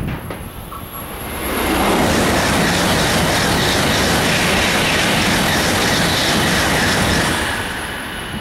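Shinkansen bullet train passing close by at speed: a rushing roar builds over about a second, holds loud and steady for about five seconds, then falls away near the end.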